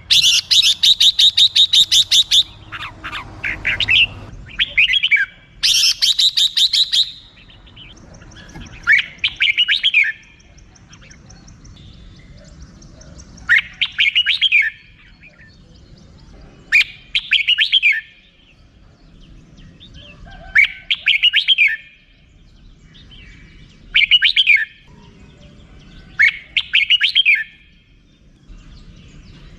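Red-whiskered bulbul calling: a rapid rattling chatter at the start and again about six seconds in, then short whistled phrases repeated about every three seconds.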